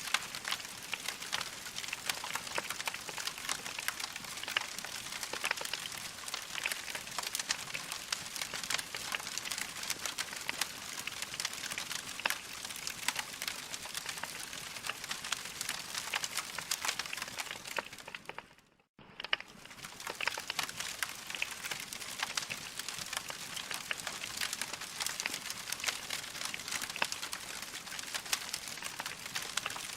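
Log fire crackling: dense, irregular crackles and pops over a soft hiss. The sound cuts out for about half a second two-thirds of the way through, then resumes.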